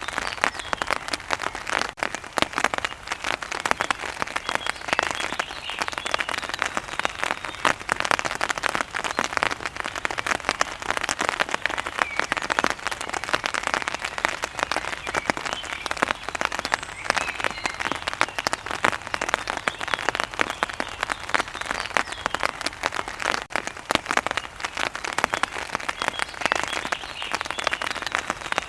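Steady heavy rain: a dense patter of raindrops striking a surface close by.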